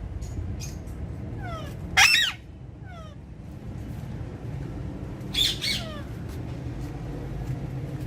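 Alexandrine parakeets squawking: one loud harsh screech about two seconds in and two more in quick succession past the five-second mark, with softer falling chirps in between, over a steady low rumble.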